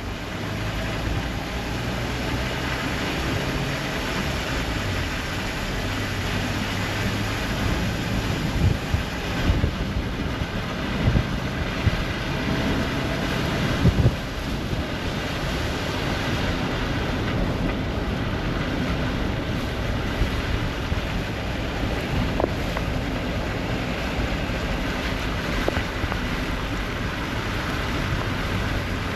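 Vehicle noise, likely trucks on a rain-soaked highway, under a steady rush, with wind buffeting the microphone in several hard gusts in the middle.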